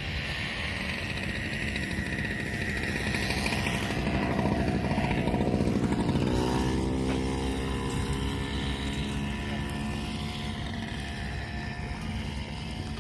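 Motor vehicle engine running, growing louder toward the middle, with its pitch dropping about six seconds in.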